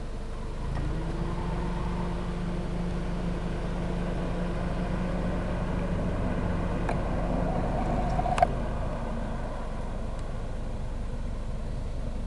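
BMW 335's straight-six engine pulling the car along, its note coming in early and growing gradually louder. About eight seconds in there is one sharp click, after which the engine note drops back.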